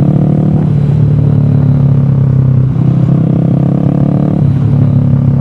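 Motor vehicle engine running at a steady pace, loud and close, its note shifting slightly a few times.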